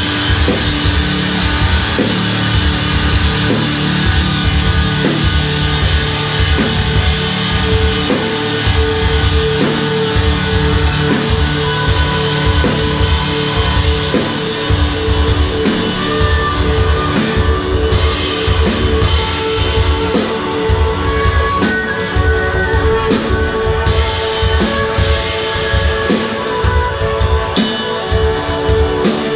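Instrumental rock band playing live: electric guitars ringing over bass and a drum kit keeping a steady beat, with no vocals.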